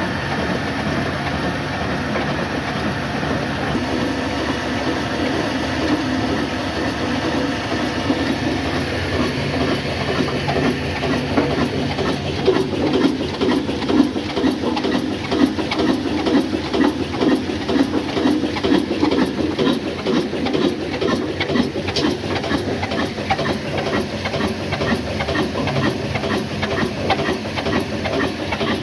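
Old single-cylinder 'black' diesel oil engine, of the Ruston Hornsby type, running steadily under load while belt-driving a flour mill, with a rapid, even beat. The beat becomes louder and more pronounced about ten seconds in.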